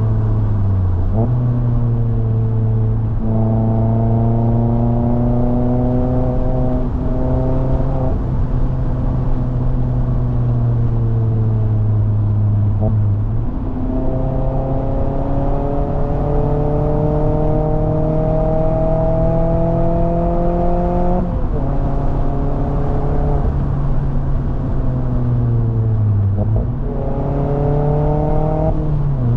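Mazda MX-5 Miata ND's 2.0-litre four-cylinder engine and exhaust heard from the cockpit, pulling through the gears on a climb. The pitch rises slowly in each gear and steps up or down at several gear changes.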